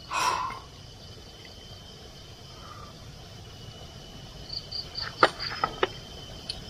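Night insects, crickets among them, trilling steadily with a thin high tone. A brief loud noise comes right at the start, a few short high chirps about four and a half seconds in, and several sharp clicks or knocks follow just after five seconds.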